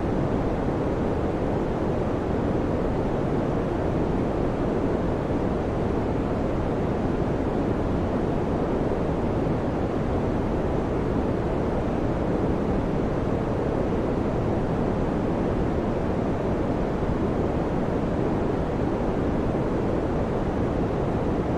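Electric fan running: a steady, unchanging low whooshing noise of moving air, with no hum or clicks.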